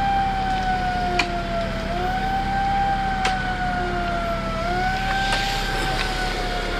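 Emergency vehicle siren wailing: its pitch jumps up, then slides slowly down, repeating about every two and a half seconds, with three sharp clicks over it.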